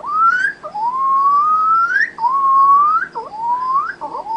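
A woman imitating a guinea pig's wheeking with her voice: a run of loud, whistle-like squeals, each sliding upward at its end, about four in a row with short breaks between them.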